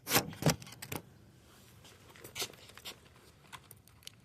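Handling noises: a quick cluster of clicks and knocks in the first second, then a few scattered single clicks.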